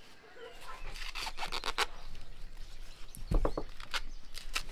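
Fresh corn husks rustling and tearing as they are stripped from the ears, with a knife working through raw meat on a wooden board. There is one heavy thump about three seconds in.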